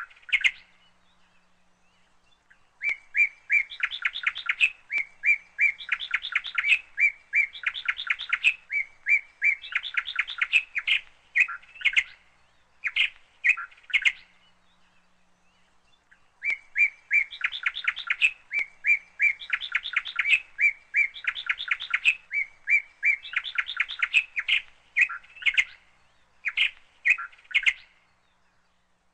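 Small birds chirping and twittering in quick runs of high notes, in two long stretches with a pause of about two seconds between them, stopping near the end.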